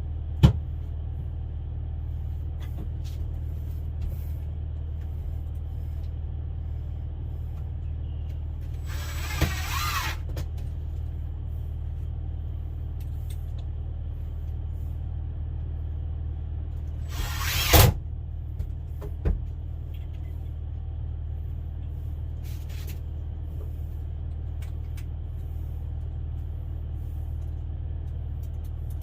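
A steady low hum, with scattered sharp knocks and two short, loud, hissing bursts, about nine and seventeen seconds in.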